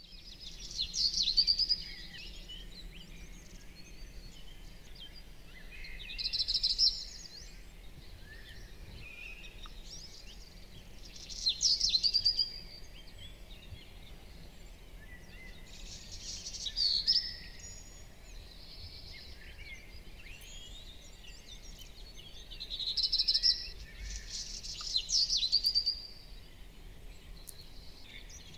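A songbird singing six short, high-pitched phrases of about a second each, a few seconds apart, over a faint steady background noise.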